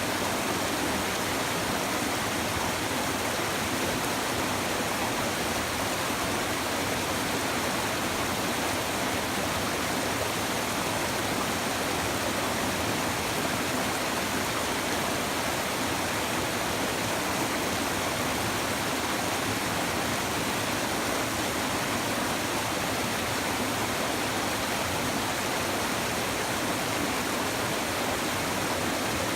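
Shallow river babbling and rushing over stones, a steady, unbroken water sound.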